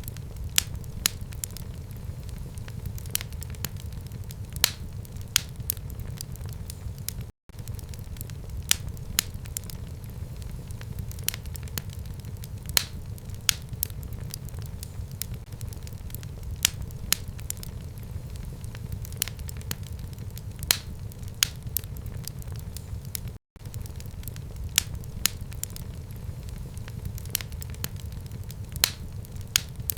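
Fire burning in a home fireplace: a steady low rumble from the flames with frequent sharp crackles and pops. The sound cuts out for an instant twice.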